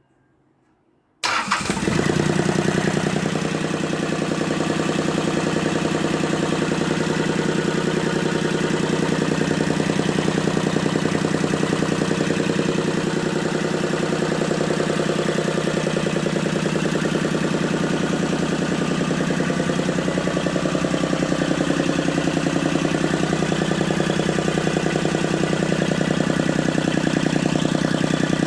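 Mitsubishi S3L2 three-cylinder diesel engine starting suddenly about a second in, then running steadily.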